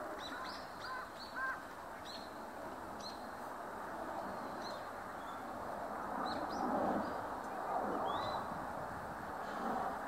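Small birds calling: short, high chirps come at uneven intervals, more often in the first few seconds. A couple of lower call notes sound near the start, all over steady background noise.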